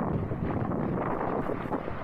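Strong wind buffeting the microphone, a steady low rush of noise, on a small sailing boat moving fast in rough, windy water.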